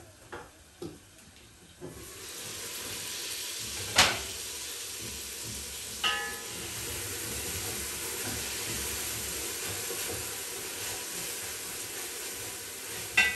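Matumbo (beef tripe) stew sizzling as it fries down in a pot on a gas stove and is stirred with a wooden spoon, a steady hiss. A sharp knock comes about four seconds in, and ringing metal clinks of the pot about six seconds in and again near the end.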